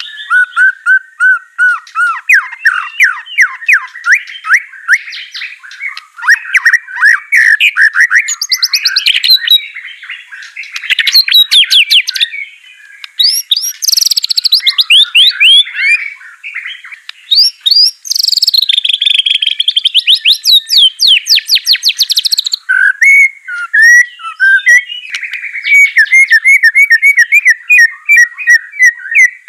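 White-rumped shama (murai batu) singing a long, varied song of rapid whistled notes and fast trills, with only brief pauses. It is a loud 'gacor' lure song of the kind used to get a silent captive shama to answer.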